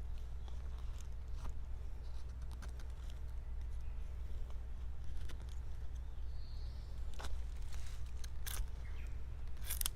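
Blade cutting and shaving green wood while rough-shaping a spoon blank: scattered short, sharp cutting strokes, a louder cluster of them near the end, over a steady low rumble.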